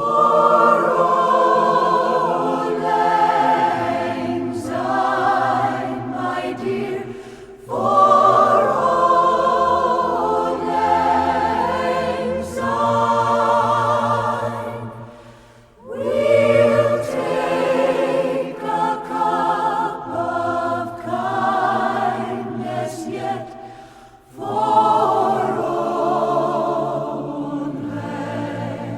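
Choir singing in long, sustained phrases with vibrato, four phrases with short breaks between them.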